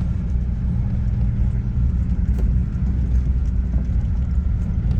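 A safari vehicle driving: a steady low rumble of engine and road noise.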